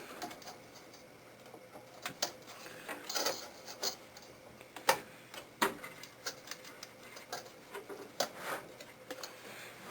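Irregular light clicks and knocks of a computer cooling fan being handled and fitted back into a desktop PC, plastic and metal parts tapping together.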